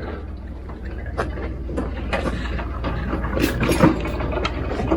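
Metal clattering and knocking as a homemade three-wheeled cart carrying a power trowel is maneuvered, over a steady low hum. The knocks are irregular and get louder, with a few sharp clanks in the second half.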